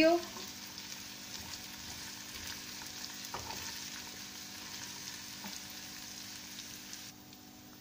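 Brown vermicelli and grated nuts sizzling in hot ghee in a frying pan as they roast, stirred with a steel spoon, with a couple of faint clicks. The sizzle cuts off near the end.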